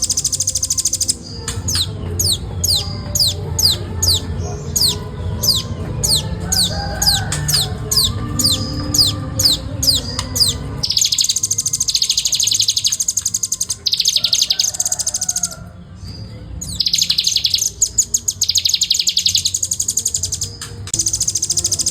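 Velvet-fronted nuthatch (rambatan) singing: a run of quick, high downslurred notes, about three a second, then long, very fast high trills in bursts of two or three seconds with short breaks between them.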